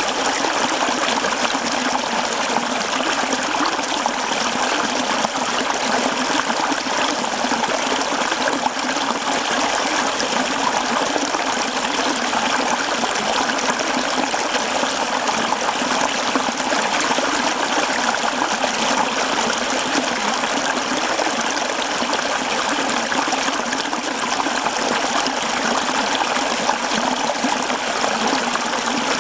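Mountain stream running over rocks, a steady babbling and trickling of water.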